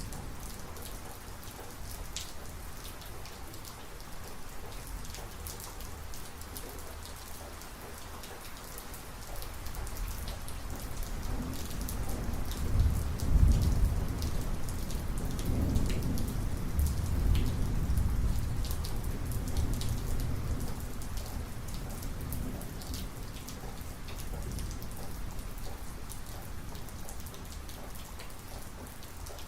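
Steady heavy rain with scattered sharp drop ticks, while a long low thunder rumble builds about a third of the way in, peaks near the middle and rolls on for several seconds before fading.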